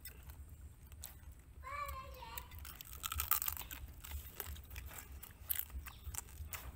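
A person biting into and chewing cooked crab wrapped in a fresh leaf: a run of small, crisp crunches and crackles from about three seconds in as the shell breaks between the teeth.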